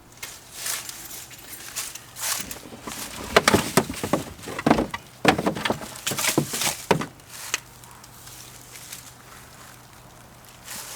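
Handling noise from a camera being set up: a string of knocks, clicks and scrapes for about seven seconds, then it goes quieter over a faint low steady hum.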